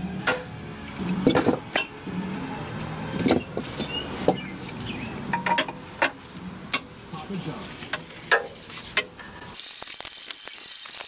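Metal tools and parts clinking and clanking against each other, a dozen or so sharp knocks spread irregularly, over a low murmur. The sound changes abruptly to a thinner, quieter background near the end.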